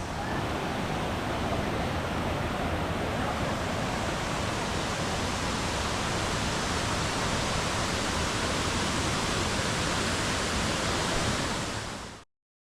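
Minoo waterfall: water falling steadily into its pool, a dense, even rush of water noise. It cuts off suddenly near the end.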